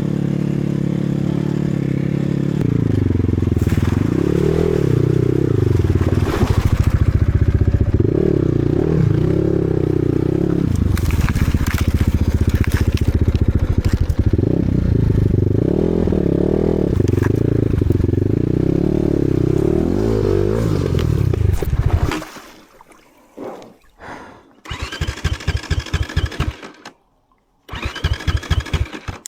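Enduro motorcycle engine revving up and down repeatedly under load for about twenty seconds, then cutting out. Two short bursts of rapid, even pulsing follow, the engine being turned over to restart.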